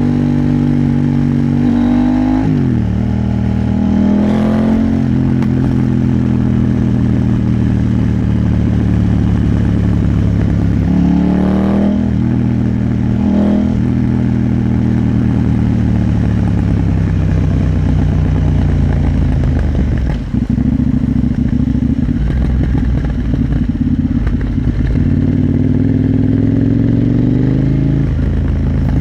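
KTM 890 Duke R's parallel-twin engine running under way, its revs rising and falling with quick swoops at several gear changes. The engine note drops briefly about two-thirds of the way in, then climbs again near the end.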